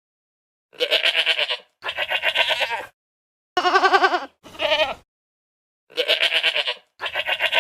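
Bleating: about six quavering calls of roughly a second each, mostly in close pairs, separated by gaps of dead silence.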